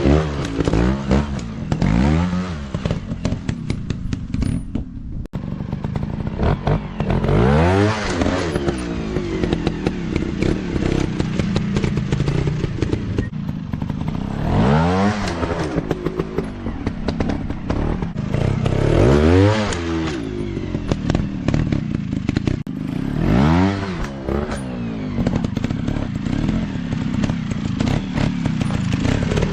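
Several off-road dirt bikes running together, their engines revving up and easing off again and again as they ride.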